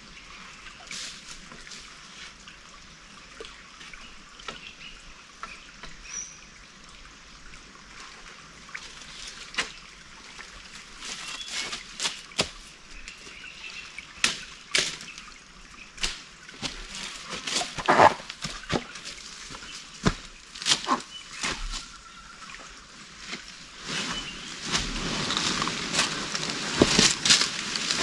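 Water trickling and sloshing, with irregular sharp splashes that come more often and louder toward the end.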